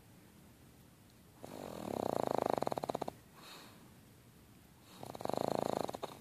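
Pug snoring: two long, fluttering snores, each one to one and a half seconds long and about three seconds apart.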